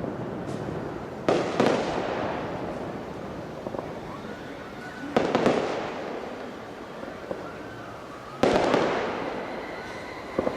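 Aerial firework shells bursting in a large display: loud booms, mostly in pairs, about every three to four seconds, each trailing off slowly into a rumble.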